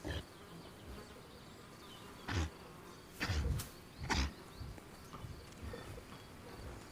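Flies buzzing around resting European bison, with three short breathy bursts a little after two, three and four seconds in.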